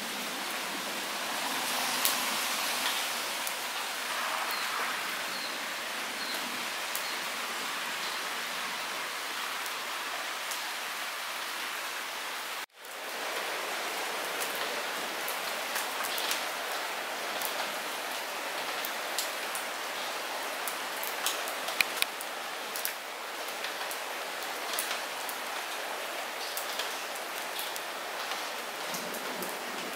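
Light rain falling steadily: an even hiss with individual drops ticking sharply on top, a few louder ticks near the two-thirds mark. The sound cuts out for a split second about 13 seconds in.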